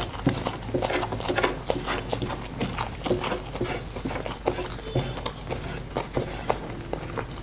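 A person chewing food, with a run of small, irregular mouth clicks and smacks.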